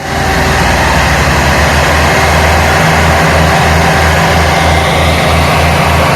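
Tractor diesel engine running hard while pulling a heavy loaded trolley, a low chugging pulse of about three beats a second.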